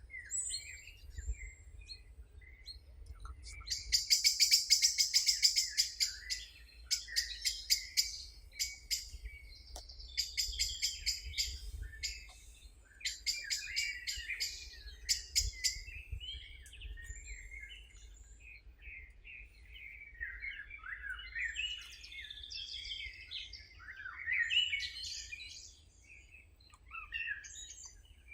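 Wild birds singing: a loud, fast, trilling song phrase repeats about four times in the first half, followed by softer, varied chirps and warbles.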